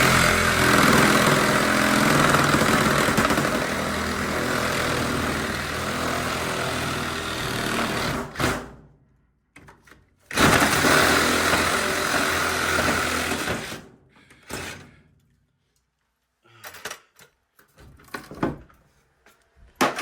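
Handheld power tool running under load in two long runs, the first about eight seconds and the second about three and a half, with a short stop between; a few faint knocks follow.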